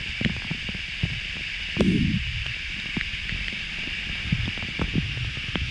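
Steady rush of a waterfall, with scattered small knocks and a brief low thump about two seconds in.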